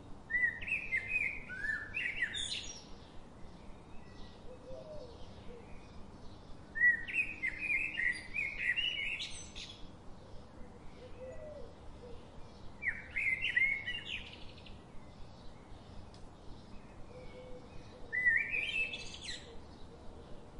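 A songbird singing a short, quick warbling phrase of chirpy notes four times, one roughly every five to six seconds, over a low steady hiss.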